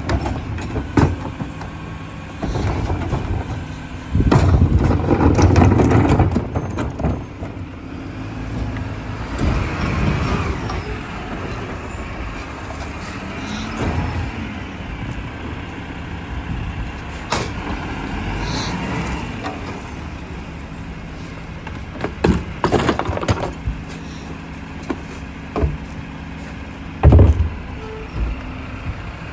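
Garbage truck's diesel engine running as its hydraulic packer compacts trash, the engine revving loudest for a couple of seconds early on, with clanks and knocks from the packing. A single heavy bang comes near the end.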